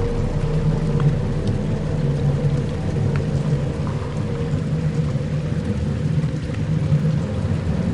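Dark ambient drone music: low sustained tones held steady under a rain-like hiss with faint scattered ticks.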